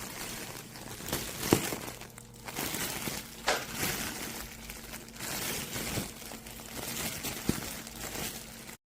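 Plastic wrapping crinkling and rustling as it is handled, with a few sharper crackles. It cuts off abruptly near the end.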